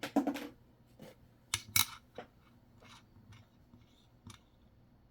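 Handling of nickels and their holders: a few short clicks and scrapes, the loudest clustered in the first two seconds, with fainter ticks after.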